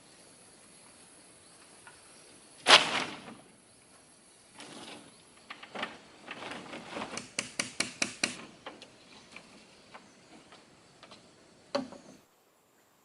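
A tool striking wood: one heavy blow, then a quick run of sharp strikes at about four a second, and another blow near the end. Insects drone faintly underneath.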